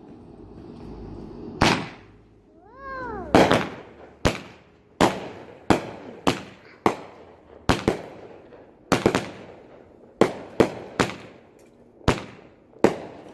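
King Bird 'Pumpkin Patch' 200-gram, 16-shot consumer fireworks cake firing: a rapid series of sharp bangs, shells bursting one after another about every half second to a second, each with an echoing tail. A short warbling whistle rises and falls just before the third second.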